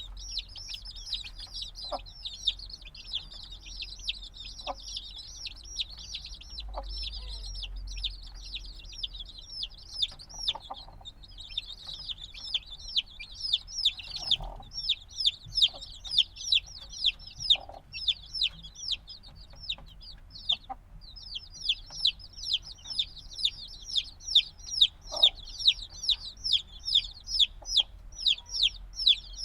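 A flock of chicks only a few days old peeping constantly: many short, high, downward-sliding chirps overlapping into a busy chatter, with louder single peeps standing out at several a second in the second half.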